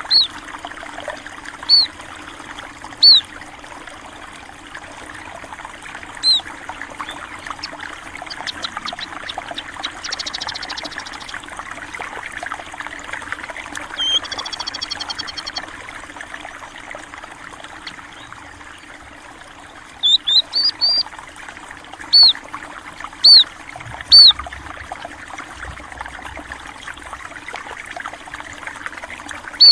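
Water flowing and trickling steadily, with short, high, loud chirps from small birds, pipits in the local sense, munias: a few spaced chirps at the start and a quick run of several about two-thirds through. A brief buzzy trill sounds twice, about a third and about halfway through.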